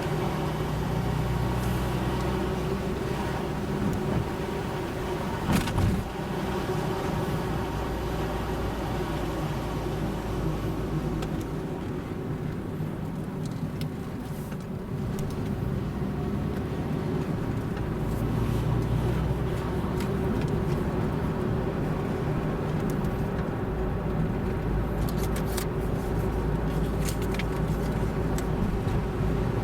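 Car being driven, a steady engine and tyre rumble, with one short knock about five and a half seconds in and a few faint clicks near the end.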